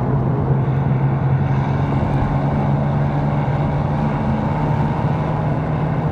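BMW M4's twin-turbo straight-six engine running at a steady cruise with road and tyre noise, its drone rising slightly in pitch near the end.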